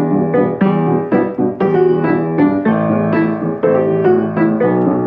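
Piano playing an instrumental break between sung verses of a rock ballad, struck chords at about two a second.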